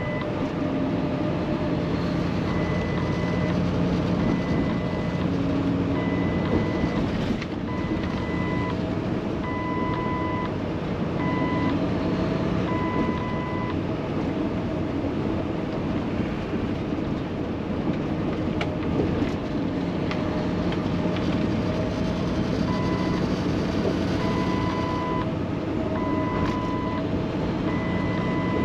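Steady drone of a semi-truck's PACCAR MX13 diesel and road noise from inside the cab, the rig cruising on wet highway. A high tone keeps coming on and off about once a second, stopping for several seconds around the middle.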